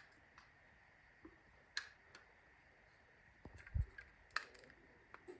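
Faint scattered clicks and one soft low thump: the buttons of a garage door opener remote being pressed and the remote handled. The opener does not run because it is in lock mode.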